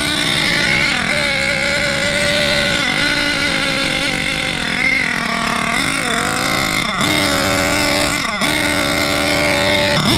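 Small 4.6 cc nitro engine of an HPI Savage X4.6 RC monster truck running steadily. Its pitch dips and picks back up several times as the throttle changes. It is running super rich on its break-in tune.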